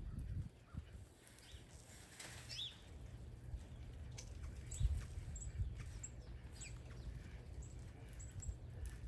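Backyard songbirds giving many short, high chirps and a few quick down-slurred call notes, over a faint low rumble.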